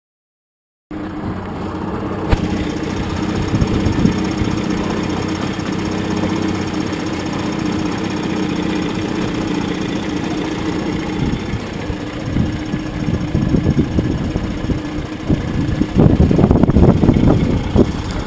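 Pontoon boat's motor starting to be heard about a second in and running steadily at idle, then growing rougher and louder with irregular noise over the last several seconds.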